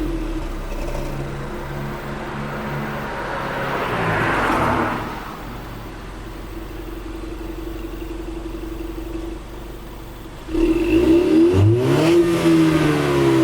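Stock exhaust of a 2018 Ford Mustang EcoBoost's turbocharged 2.3-litre four-cylinder being revved: the revs fall away, rise again about four seconds in and drop back to a steady idle, then a sudden louder rev sweeps up and down near the end.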